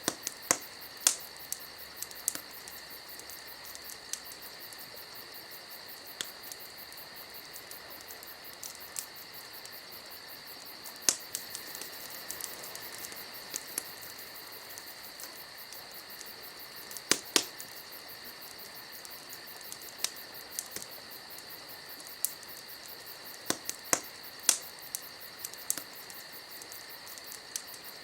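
Campfire crackling, with irregular sharp pops and snaps, over a steady high-pitched insect-like chirring.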